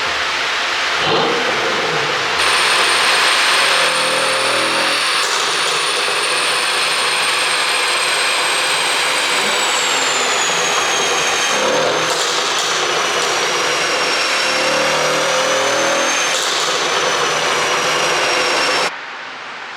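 Mercedes-AMG S63 coupe's twin-turbo V8 revving and accelerating, rising and falling in pitch, with sharp pops from the exhaust as it comes off the throttle, the sign of an ECU pop tune. The sound drops away abruptly near the end.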